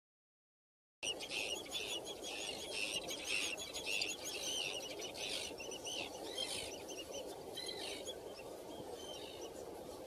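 After a second of silence, birds chirp and call in many quick, short notes, thickest over the first few seconds and thinning later, over a steady low rushing background.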